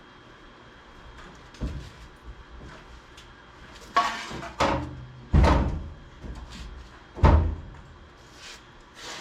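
A heavy car battery being handled and set into place, making a series of about five clunks and thumps. The loudest two come in the second half.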